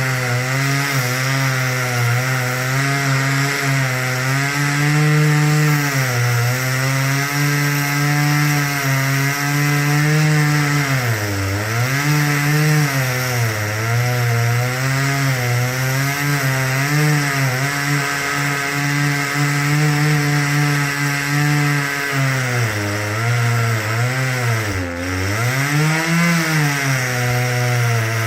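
Two-stroke chainsaw running at high speed while cutting wood, its engine pitch dipping and recovering about halfway through and a few times near the end as the cut loads it.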